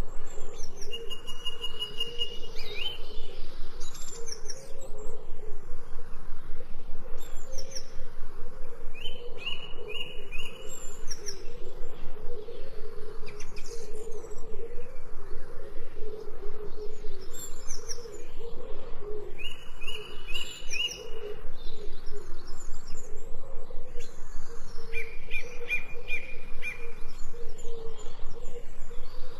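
Several songbirds chirping and calling: a short stuttering trill repeats every several seconds, with high whistled notes sliding down in pitch between them, over a steady low wavering hum.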